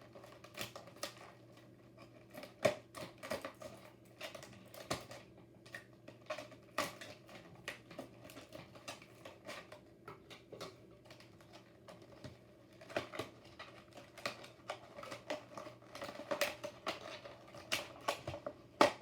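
Plastic packaging of a diecast toy car being handled and pried open by hand: irregular sharp clicks and taps, bunched in quicker flurries near the middle and the end, over a low steady hum.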